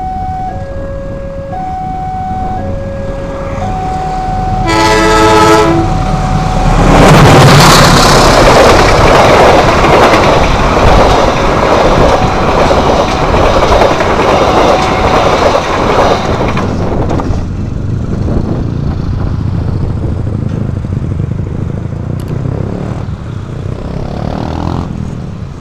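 A level-crossing warning alarm sounds an alternating two-tone signal. About five seconds in, the train horn gives one long blast. A KAI passenger train then runs past at speed, its wheels loud on the rails for about ten seconds before easing off. Near the end, a motorcycle engine revs up.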